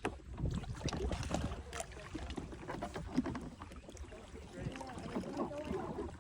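Water splashing and sloshing around kayaks, with scattered knocks on the hulls, as a paddler climbs back into a kayak that another holds steady. Low wind rumble on the microphone underneath.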